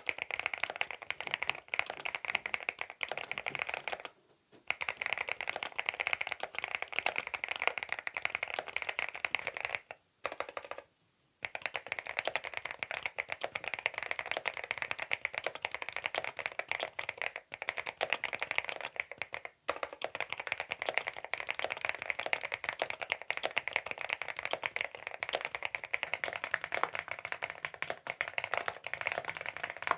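Fast continuous typing on a CIDOO V87 aluminium-case mechanical keyboard with linear switches, the key clicks packed closely together. It breaks off briefly a few times, around four seconds in and again around ten to eleven seconds.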